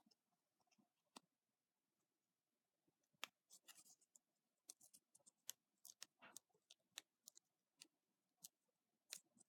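Near silence, broken by faint, scattered small clicks and light rustles of paper craft pieces being handled and pressed on a desk.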